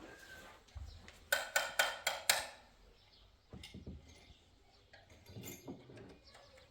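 Five quick, sharp clinks in a row, about four a second, starting a little over a second in, followed later by a few fainter knocks.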